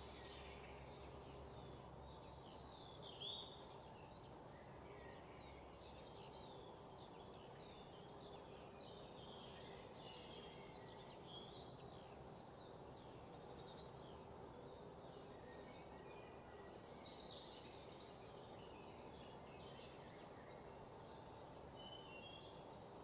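Faint background of birds chirping, with many short high calls scattered throughout, over a low steady hum.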